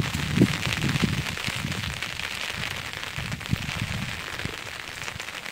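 Rain falling: a steady hiss of patter with irregular low thuds, heaviest in the first second.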